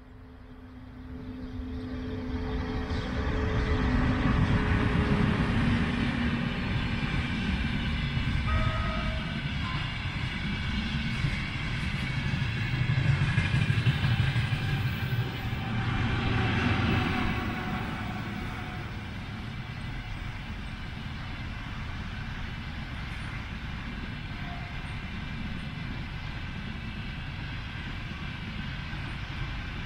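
Freight container train rolling past, its wagons rumbling on the rails. It builds over the first few seconds, is loudest for about the next thirteen seconds, then eases to a steadier, quieter rumble.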